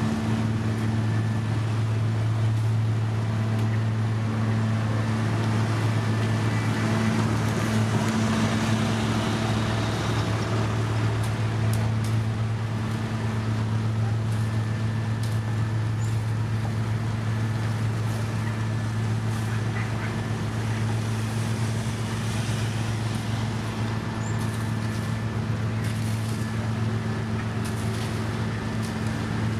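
Engine of a heavy road-construction machine running steadily, a loud even hum with a few light knocks and clicks over it.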